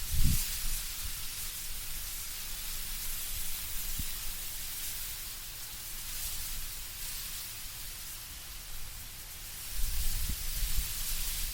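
Wind moving through autumn trees, leaves rustling as a steady soft hiss. Deeper gusts swell briefly at the start and again near the end.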